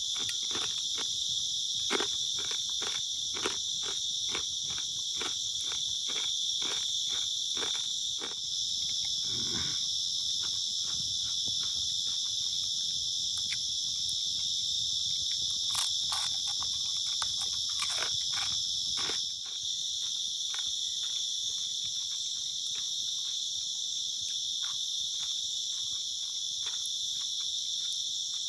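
Night insect chorus of crickets and other insects: a steady, layered, high buzzing that shifts its pattern around 8 seconds in and again near 19 seconds. Irregular soft clicks and crackles sound underneath.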